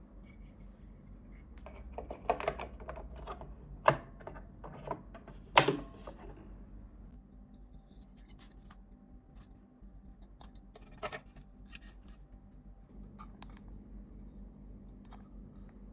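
Clicks, taps and light scrapes of small parts and tools being handled by hand. A quick run of knocks builds to the loudest one about six seconds in, followed by sparse light ticks over a faint steady hum.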